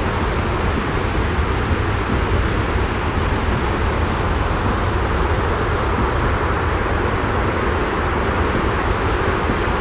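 Steady, unbroken white-noise-style rumble, heaviest in the low end, with no distinct events or changes.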